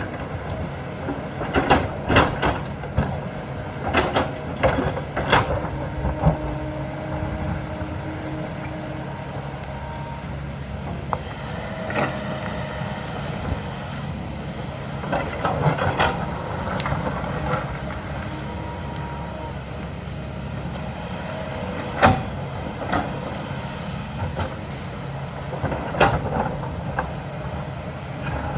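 Heavy earthmoving machine's diesel engine running steadily under load, with repeated sharp clanks and knocks of the steel bucket against rock and soil, thickest in the first few seconds and again about halfway through.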